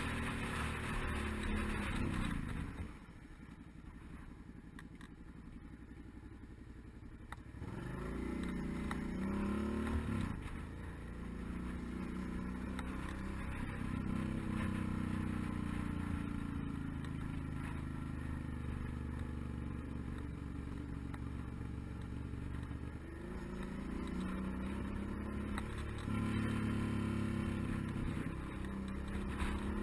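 Suzuki DL650 V-Strom's V-twin engine on the move: its note falls away as the throttle is closed, it coasts more quietly for a few seconds, then rises again under acceleration and settles into a steady drone, picking up once more near the end.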